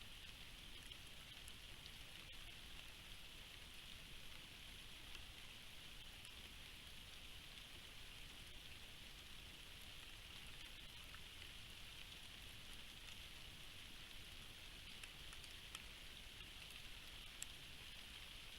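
Steady rain falling, faint, a constant hiss with a few scattered drop ticks, picked up by a trail camera's microphone.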